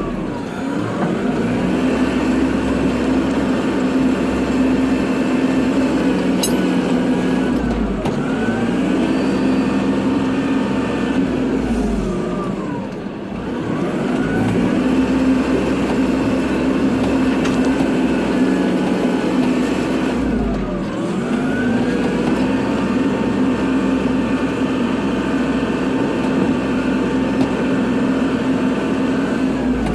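Kubota tractor's diesel engine running steadily while plowing snow. Its pitch dips and recovers about four times, with the deepest dip about 13 seconds in.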